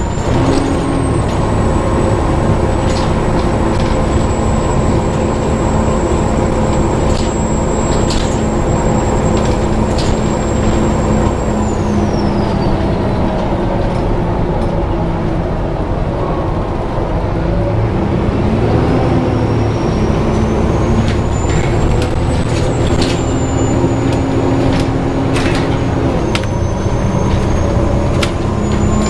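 High-pitched squeal from the cooling fan of a Volvo B7TL double-decker bus, over the steady running of its diesel engine. The squeal falls away in pitch and fades about twelve seconds in, then rises back to its high pitch around twenty seconds in and holds.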